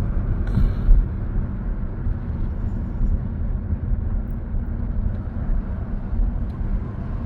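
Engine and tyre rumble heard inside a car's cabin as it drives along the road, a steady low drone. A brief rustle about half a second in.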